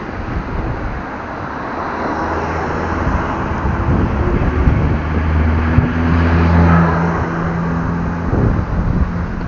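A motor vehicle driving past on the street, its engine hum swelling through the middle and fading again, over steady wind and traffic noise.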